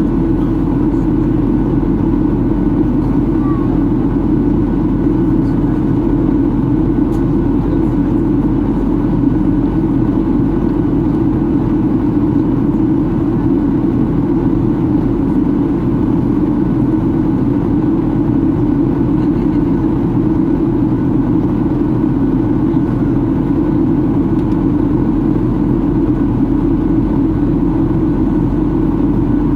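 Steady, unbroken cabin drone inside a Boeing 737-800 in flight: the CFM56-7B engines and airflow over the fuselage make a constant low roar with no change in level.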